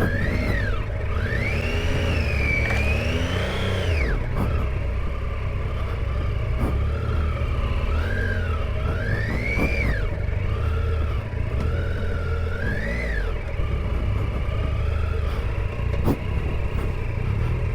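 Triumph Tiger 800 XCa's three-cylinder engine revving up and down again and again as the throttle is worked on a dirt track, over a steady low rumble. A few sharp knocks, about four, seven and sixteen seconds in.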